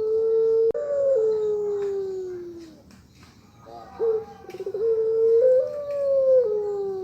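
Puter pelung dove giving its long coo, twice. Each coo holds a steady note, steps up briefly, then slides slowly down in pitch and fades. The second coo begins about four seconds in with a short stuttering lead-in.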